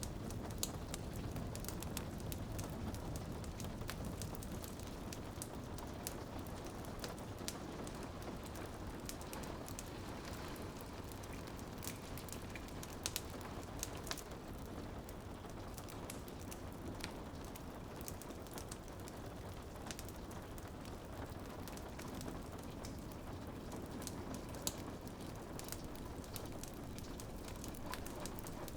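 Rain pattering steadily against a window, mixed with a wood fire crackling in a fireplace, with many small sharp pops and ticks scattered throughout.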